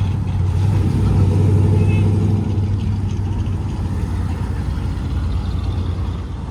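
Classic car's engine rumbling as the car drives past, loudest in the first couple of seconds, then easing off as it moves away.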